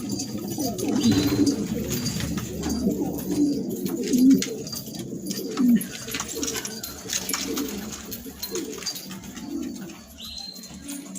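Several domestic pigeons cooing, their low calls overlapping and repeating, with scattered light clicks among them.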